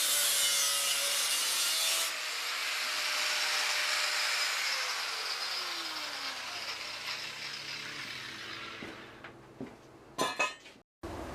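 Power tool cutting through a steel motorcycle frame tube: a loud, harsh cutting noise that drops off about two seconds in, then the tool winds down with a falling whine and fades. A couple of sharp metal clanks near the end.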